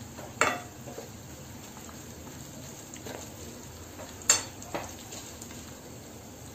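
Onions, whole spices and slit green chillies sizzling in oil in a non-stick kadai as a steel spoon stirs them. A few clinks of the spoon against the pan, the loudest about four seconds in.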